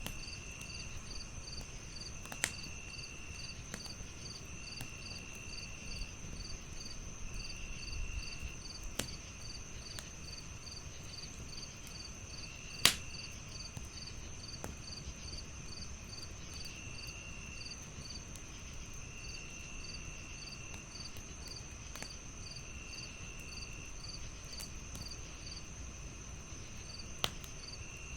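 Crickets chirping steadily: a constant high trill, a pulsed chirp a few times a second, and a lower trill coming in phrases of about a second. A wood fire crackles with a few sharp pops, the loudest about thirteen seconds in.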